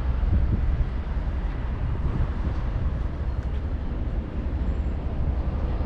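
Steady low rumble of outdoor urban background noise, with a few faint clicks.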